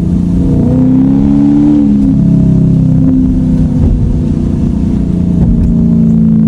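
Lexus car engine under acceleration: its pitch climbs for about two seconds, falls, then holds fairly steady.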